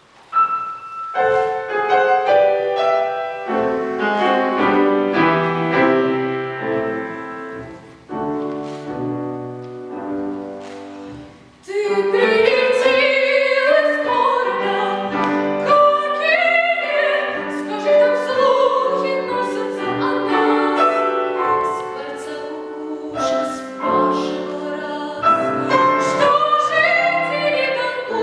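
Piano introduction in single struck chords, then about twelve seconds in a child's classically trained solo voice enters, singing with vibrato over the piano accompaniment.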